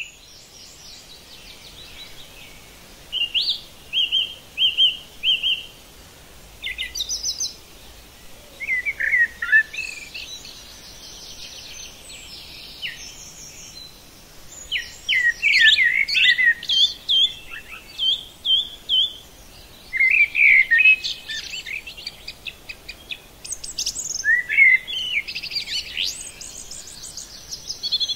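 Several birds singing and chirping, overlapping, with short repeated notes and trills coming and going throughout.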